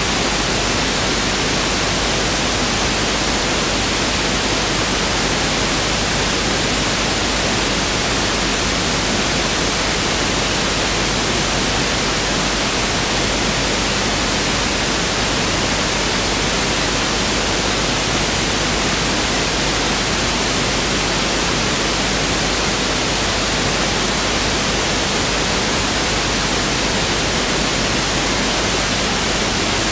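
Pink noise test signal: a steady, even hiss spread across the whole range of pitch, unchanging throughout.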